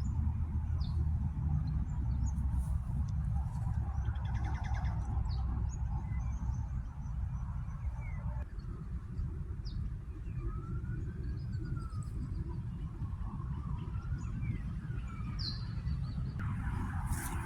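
Small birds chirping in short scattered calls, with a few rising-and-falling call notes, over a steady low rumble.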